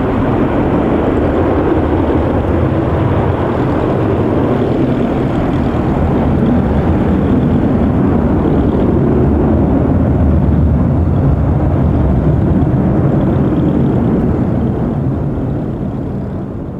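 Douglas DC-8's four Pratt & Whitney JT3D turbofans running loud, a steady deep jet rumble that begins to drop off near the end.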